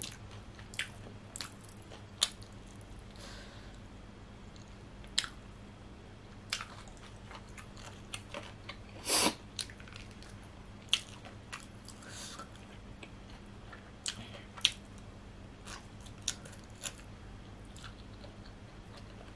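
Close-miked chewing and biting on pan-grilled chicken, with scattered short, sharp crunching clicks and wet mouth sounds; the loudest crunch comes about nine seconds in.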